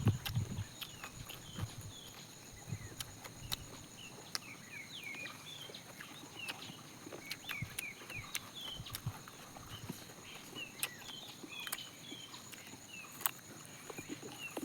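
Faint outdoor ambience: small birds chirping over and over, with scattered sharp clicks and a steady faint high hum.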